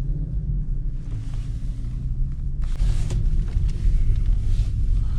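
Car's engine and road noise as a steady low rumble inside the cabin while driving slowly, with a short burst of noise about three seconds in.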